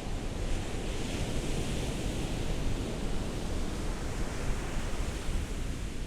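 Ocean waves on a shore: a steady rushing hiss that swells about half a second in, as a wave washes up, and eases off over the next few seconds.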